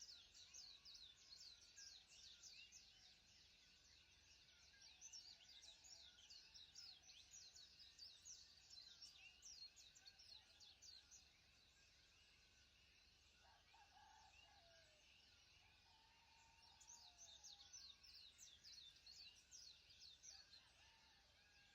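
Faint chirping of many small birds, a dense run of quick, short chirps that thins out for a few seconds in the middle while a few lower calls sound.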